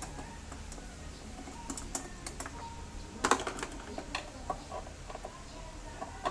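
Scattered light clicks and taps of hand tools and screws being worked while a scooter's under-seat U-box is unbolted, with one louder clatter about three seconds in.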